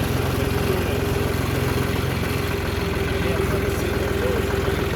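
Vehicle engine running steadily: an even low rumble with a steady hum over it.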